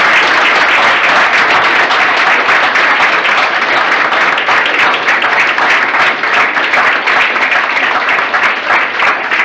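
Audience applauding: a loud, steady round of many hands clapping.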